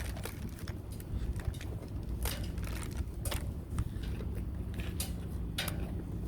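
Food packaging being handled: a few short crinkles and clicks, about a second apart, over a steady low hum.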